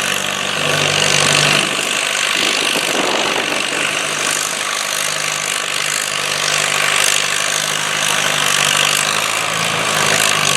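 Antique farm tractor engine running steadily under load, pulling a weight sled.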